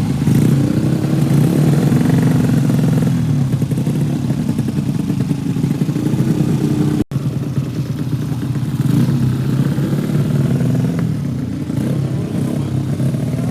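Drag-racing motorcycle engines running, their revs rising and falling gently. The sound drops out for an instant about halfway through.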